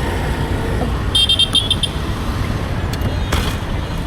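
A vehicle horn honking, a shrill tone broken into several short beeps about a second in, over a steady low rumble of road traffic. A short crackle follows near the end.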